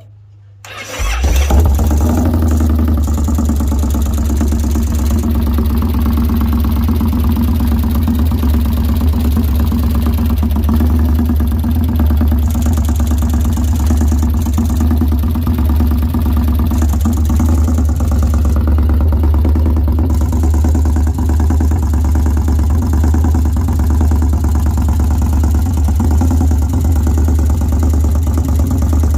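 2013 Victory Highball's V-twin engine starting about a second in, then idling steadily. The idle carries an engine knock, which the owner is recording.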